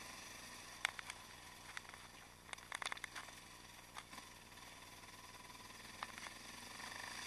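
Yamaha XT660X single-cylinder engine with a Mivv exhaust running on the move, heard faint and muffled, with scattered sharp clicks and a short cluster of rattles about three seconds in.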